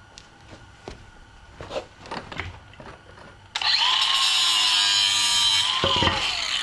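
A few light knocks and clicks, then a handheld power tool runs loud for about three seconds with a whine that dips as it winds down, working on metal.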